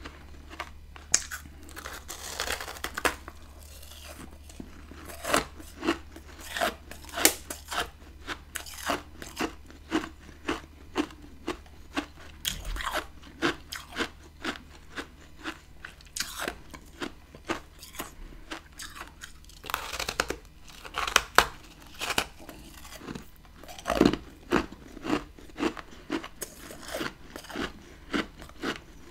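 A person biting and chewing chunks of frozen freezer frost close to the microphone: a steady run of sharp, crackly crunches, about one to two a second, with louder bites near the middle and again later on.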